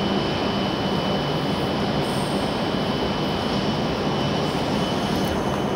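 Steady whirring hum of a W7 series Shinkansen train standing idle at the platform with its onboard equipment running, with a thin high steady whine over it.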